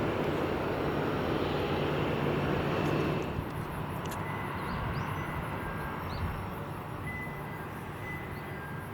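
Jet engine noise of a departing Boeing 737-800, a broad rush that drops away about three seconds in, leaving fainter background noise with a few small chirps.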